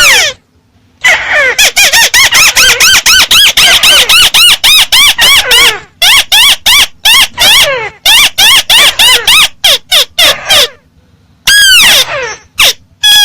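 Loud, volume-boosted calls of the bird known in Vietnam as the 'mắt xéo': a fast string of arched, squeaky notes, about five a second, in runs broken by short pauses.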